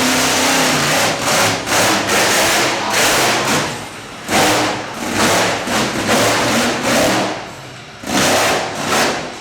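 Monster truck engine revving hard in repeated bursts, each surge lasting under a second, with drops in between.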